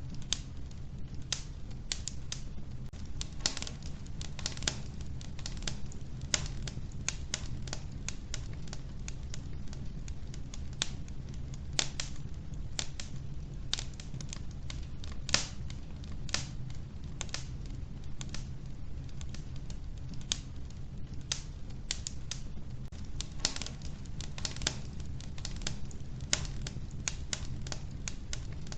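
Wood fire crackling in an old wood-burning stove: irregular sharp pops and snaps, several a second, over a steady low rumble.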